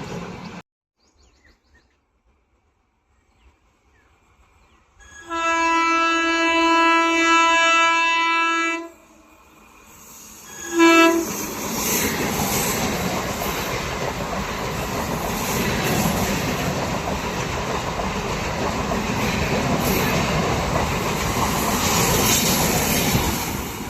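A locomotive horn sounds one long steady blast, then a short second blast. An express train then passes close by at speed, with a steady rumble and wheel clatter over the rail joints.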